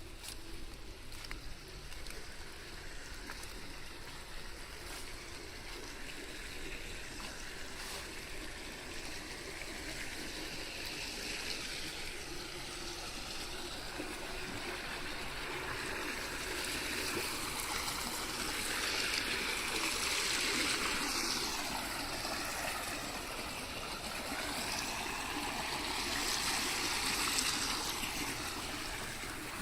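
Running, trickling rainwater, a steady rush that grows louder, swelling twice: around two-thirds of the way in and again near the end.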